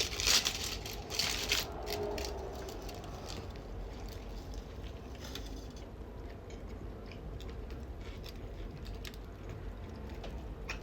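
A person chewing Mexican food close to the microphone, with wet mouth clicks and smacks; a few sharper bites in the first two seconds, then quieter steady chewing.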